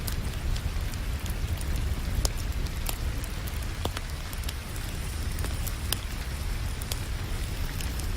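Steady rain hiss mixed with a wood fire crackling, with sharp pops about once a second over a constant low rumble.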